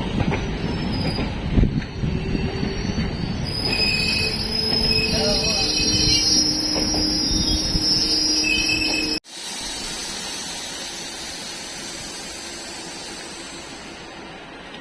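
Passenger train running, its wheels squealing against the rails in several held high tones over a steady rumble. About nine seconds in the sound cuts off abruptly and gives way to a quieter, steady rumble that slowly fades.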